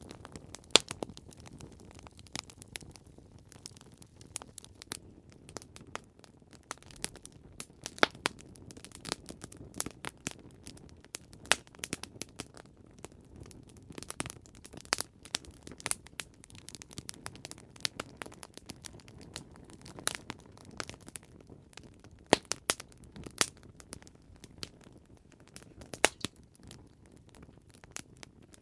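Campfire crackling: irregular sharp snaps and pops of burning wood over a soft low hiss, with a few louder pops scattered through.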